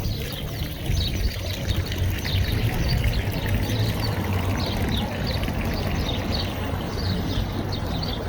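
Water running steadily, with small birds chirping repeatedly over it.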